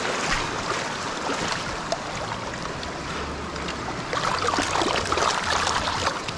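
Mountain stream water rushing steadily, with a few splashes from about four seconds in.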